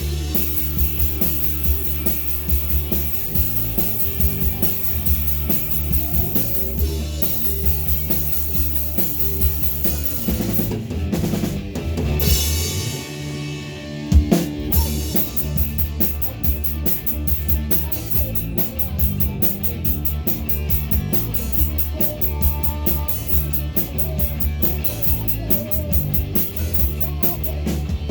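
Live rock band playing, with the drum kit prominent over bass and guitars. About halfway it drops back briefly, a single sharp drum hit comes in, and the band picks up again under a fast, even cymbal beat.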